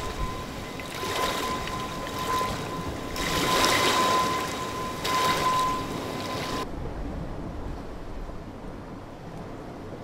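Electronic soundtrack of swelling and fading washes of surf-like noise over a steady high tone. Both cut off suddenly about two-thirds of the way through, leaving a quieter, duller hiss.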